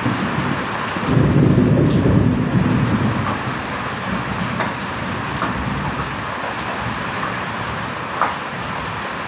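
Steady heavy rain hissing, with a low rumble of thunder swelling about a second in and fading after a couple of seconds. A sharp tap near the end.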